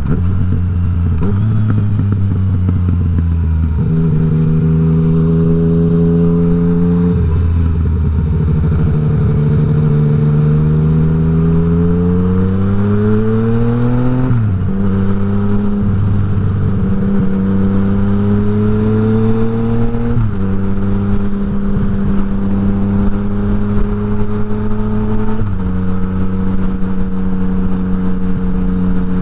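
Yamaha MT-09's three-cylinder engine running through an Akrapovič exhaust with the dB killer removed, under way. The revs hold steady for stretches, then climb and drop sharply at gear changes, several times.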